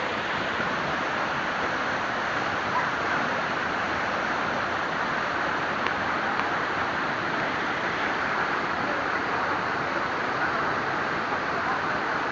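Waterfall rushing steadily, a constant dense roar of falling water.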